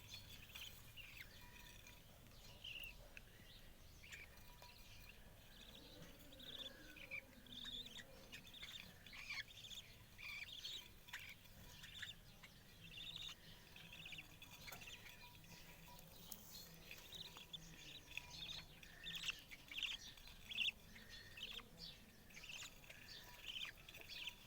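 Faint, frequent short chirps of budgerigars in an aviary, overlapping one another throughout.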